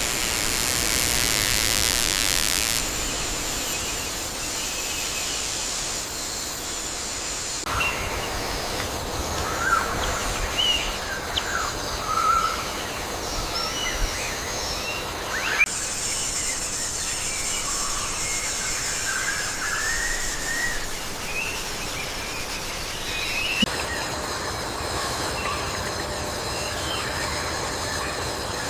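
Tropical rainforest ambience: a steady, shrill insect drone with scattered short bird chirps and whistles. The background changes abruptly several times.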